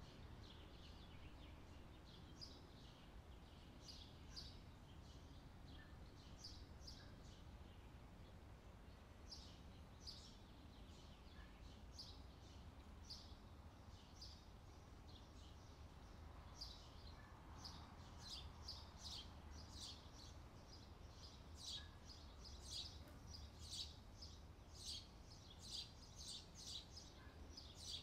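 Faint summer-night ambience of birds chirping, short high calls that come thicker and louder in the second half, over a steady low background rumble.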